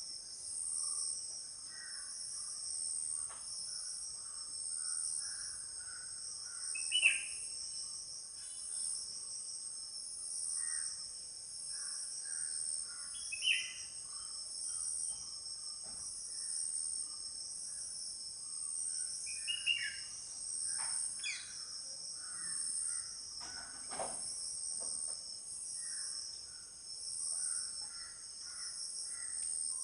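A steady, pulsing high-pitched insect chorus runs throughout, with soft scattered bird chirps. About five short, loud bird calls break in, each falling in pitch.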